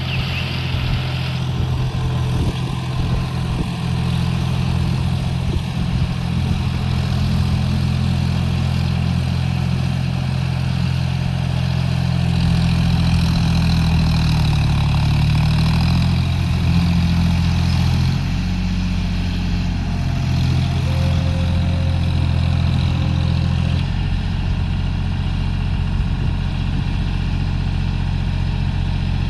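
John Deere 5050D tractor's three-cylinder diesel engine running steadily, its pitch wavering up and down for a few seconds around the middle before settling again.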